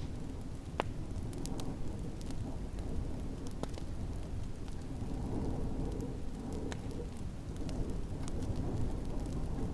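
Wood fire crackling, with scattered sharp pops, over a steady low rumble of snowstorm wind.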